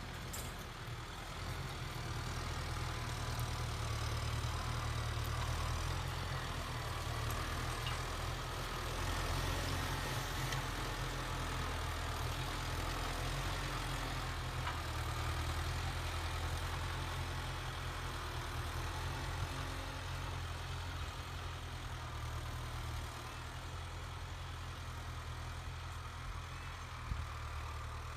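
Kubota MU5702 tractor's diesel engine running steadily, a low even hum.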